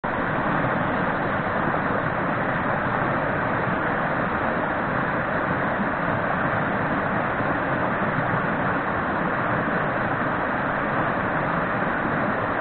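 Mountain stream's water rushing steadily.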